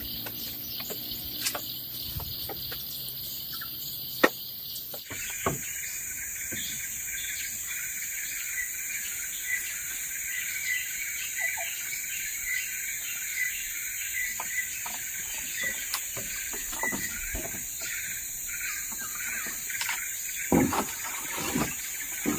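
Steady, high-pitched chorus of forest insects, changing character about five seconds in. Scattered light clicks and knocks run through it, with a few louder knocks near the end.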